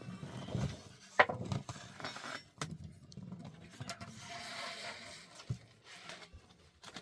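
Knocks and clinks of cooking utensils being handled, one sharp knock a little over a second in, with a soft rushing stretch about four to five seconds in.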